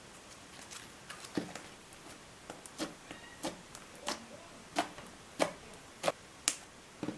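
Hands squeezing and stretching slime, making about a dozen short sticky pops and clicks, roughly one every half second.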